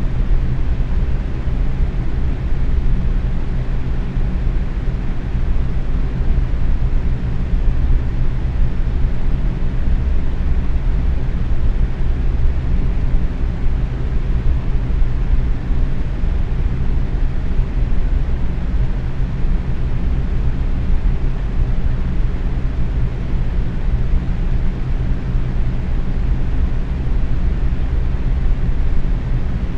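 Box fan running steadily at medium speed: an even low whooshing rush of moving air with a faint motor hum underneath.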